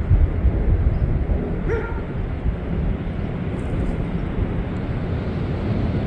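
Steady low rumbling outdoor noise with a single short dog bark about two seconds in.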